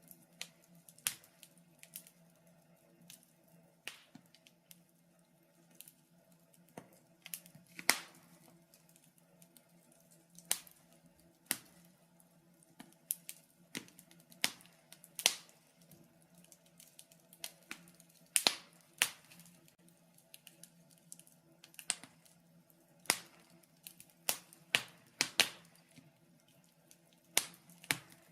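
Wood fire in a fireplace crackling: irregular sharp pops and snaps, one or two a second, some much louder than others, over a faint steady hum.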